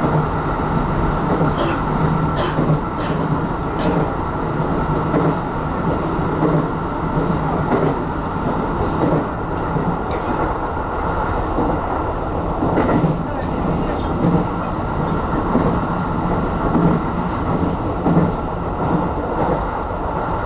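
Aonami Line electric commuter train running at speed, heard from inside at the front: a steady rumble of wheels on rail with a low hum and a few sharp clicks from the track.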